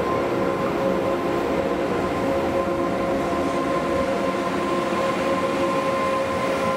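Train running on the line: a steady rumble with a steady whine held at one pitch over it.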